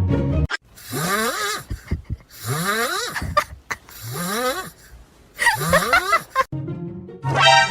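Four noisy, snore-like sounds from a pet, about a second and a half apart, each rising in pitch. Background music stops just before them and comes back near the end.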